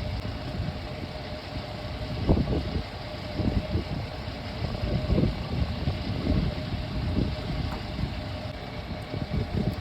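Tractor-trailer's diesel engine running steadily with a low rumble, broken by irregular low thuds every second or so.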